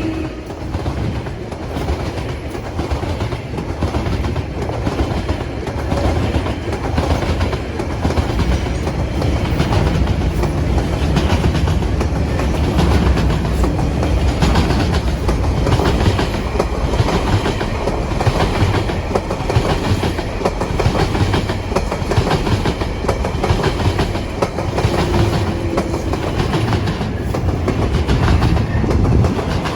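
Tasrail freight train of coal, container and log wagons rolling past, a steady rumble with rapid clacking of the wheels over rail joints.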